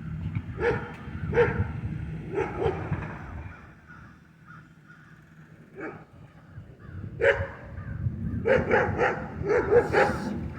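A dog barking, about a dozen short barks in irregular groups, coming thickest near the end. A low rumble sits underneath and fades out about four seconds in.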